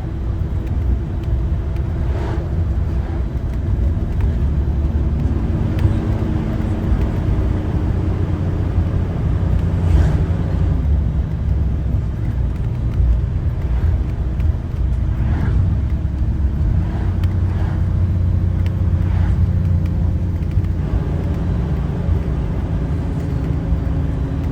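IC CE school bus engine running steadily while driving, a low rumble heard inside the bus, with a few short rattles and knocks from the body along the way.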